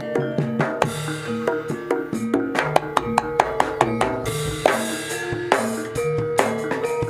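Jaranan Senterewe music played live: fast, dense drumming with a few bright crash-like hits over steady pitched tones.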